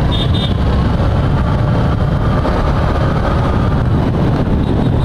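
Suzuki Gixxer single-cylinder motorcycle running steadily at road speed, with wind rushing over the rider's microphone.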